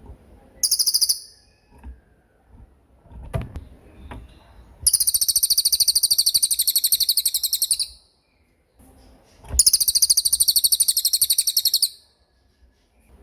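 Songbird giving rapid, high-pitched rattling trills: a short one near the start, then two long trills of about three seconds each. Faint low knocks fall between them.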